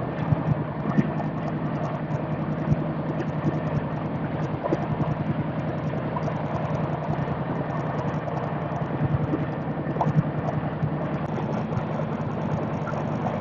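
Steady rumble of an Indian Railways express passenger train heard from on board, a low hum with small knocks and clicks scattered through it.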